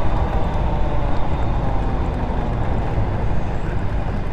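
150cc GY6 scooter engine running under way, with heavy wind rumble on the microphone; its pitch falls in the first second as the rider eases off.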